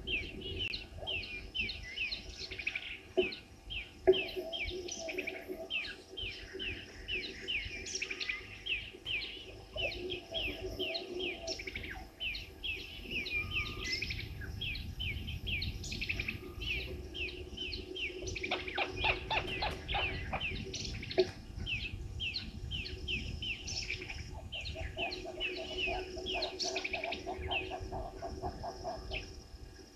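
Wild birds calling: a steady run of quick, high chirps about three a second, joined by a lower, rapid chattering series partway through and again near the end.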